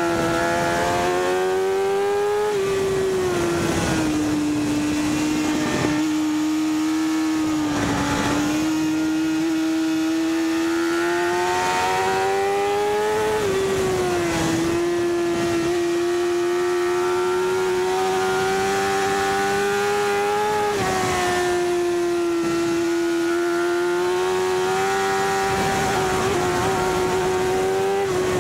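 BMW S1000RR's inline-four engine running hard at high revs on track, its pitch climbing slowly and dropping sharply several times as it changes gear, with wind rushing past.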